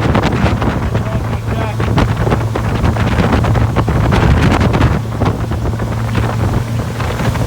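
2012 Hurricane 2400 deck boat underway, its engine giving a steady low drone, with heavy wind buffeting on the microphone over it.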